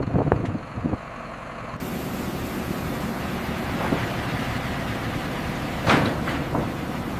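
A heavy vehicle's engine running steadily under a constant rushing noise, with a few short knocks in the first half-second and a sharp knock near the end.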